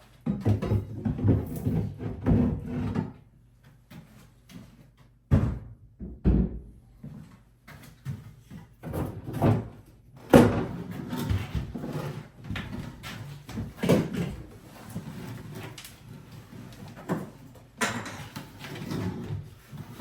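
Wooden vanity cabinet and loose wood pieces being handled and shifted: a run of irregular knocks, bumps and scraping.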